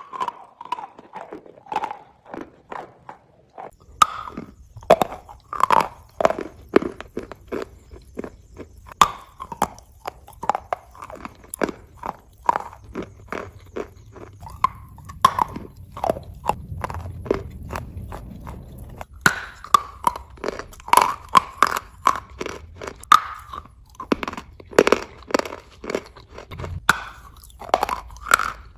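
Close-up mouth sounds of someone biting and chewing a lump of natural chalk stone: dense, crisp crunches several times a second as it breaks up between the teeth.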